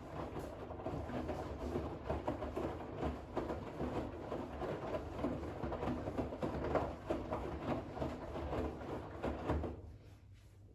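Bosch WAX32GH1 washing machine drum turning during the final rinse, wet towels sloshing and slapping in the rinse water over a low motor hum. The tumble stops near the end.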